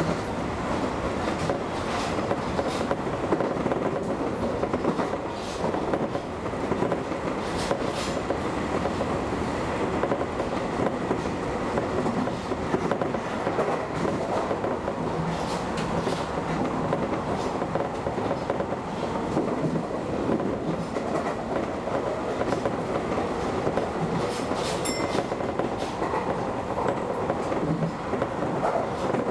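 Keio Inokashira Line 1000-series electric train running at speed: a steady rumble of wheels on rail, with occasional sharp clicks from rail joints.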